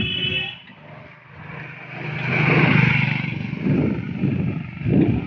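A motor vehicle, likely a motorcycle, passes close by: its engine and road noise grow louder to a peak about two and a half seconds in, then fade.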